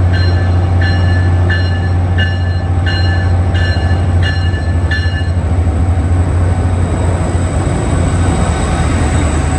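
Diesel locomotive's bell ringing about one and a half strokes a second, stopping about five seconds in, over the steady low drone of the locomotive's engine.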